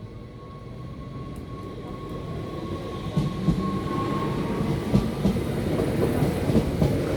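NS Sprinter Lighttrain (SLT) electric multiple unit running over the level crossing, its rumble growing louder with wheels clattering over the rail joints from about three seconds in. A thin steady whine fades out around the middle.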